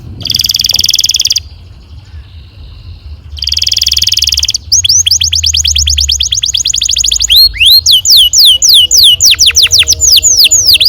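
Canary singing: two rapid, buzzing rolls about a second long each, then a fast trill of repeated downward-sliding notes, turning about two-thirds of the way in into slower, wide downward-sweeping whistles.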